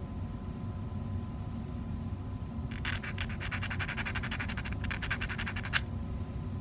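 Rapid rasping back-and-forth strokes, about eight a second, of a hand tool cutting through a small piece of 14k gold sheet to make a straight edge. They start about three seconds in and stop near the end, over a low steady hum.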